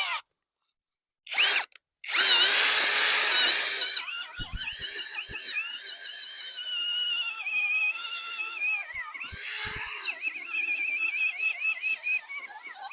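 Power drill boring a hole in the ground for a trap set. The motor whine stops and starts in the first two seconds, runs loudly for a couple of seconds, then carries on quieter with a wavering pitch.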